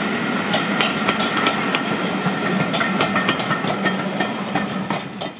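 Railway passenger coaches rolling past, their wheels clicking quickly and unevenly over the rail joints above a steady rumble, with a thin steady high tone running through it. The sound fades out quickly near the end.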